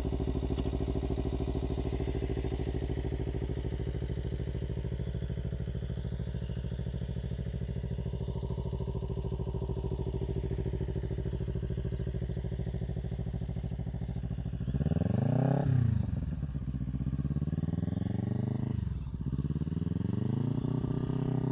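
Kawasaki Ninja 300 parallel-twin engine running at a steady, even speed. About two-thirds of the way in it is revved up and back down, then it dips and is revved up again, holding higher revs near the end.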